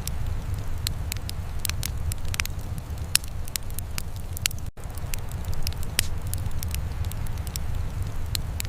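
Wood fire crackling, with irregular sharp pops and snaps over a steady low rumble. The sound cuts out for an instant about halfway through.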